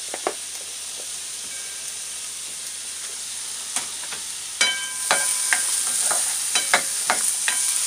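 Chopped onion and garlic sizzling in oil in a ceramic-coated frying pan. About halfway through, a plastic spatula starts stirring them, with repeated scrapes and knocks against the pan over a louder sizzle.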